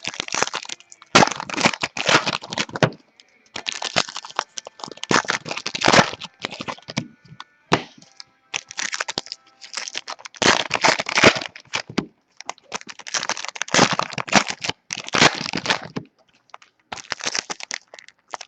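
Crinkling and crackling of a plastic trading-card pack wrapper and the cards being handled, coming in about seven short bursts with brief pauses between them.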